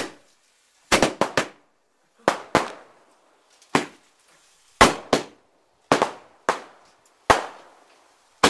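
Consumer fireworks going off one after another: about a dozen sharp bangs at uneven spacing, some in quick pairs or triplets, each fading quickly. These fit the white spider shots the uploader chained together on one fuse.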